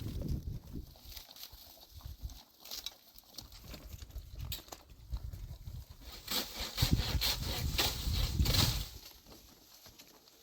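Irregular steps on stony ground, clicking and scuffing, with gusts of wind rumbling on the microphone, strongest from about six to nine seconds in.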